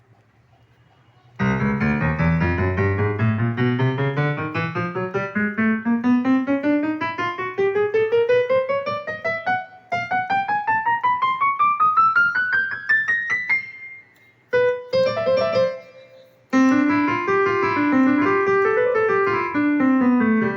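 Casio CT-X9000 digital keyboard played one key after another, climbing steadily up the range in two long runs, then a few short notes and a short tune going up and down. The keys are being checked after their repair.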